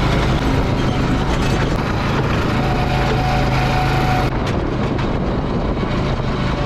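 Go-kart running steadily on the track: a loud, even motor hum with rushing noise, no change in speed.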